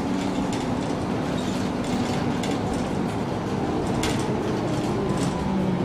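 MAN NG 313 articulated city bus on the move: its diesel engine runs at a steady hum that drifts slightly in pitch, with scattered clicks and rattles from the body.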